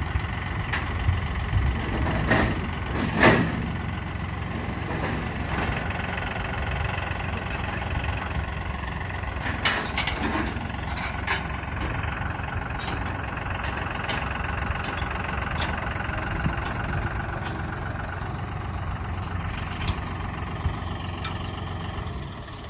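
Vehicle engine idling steadily, with a few sharp metallic knocks and clanks.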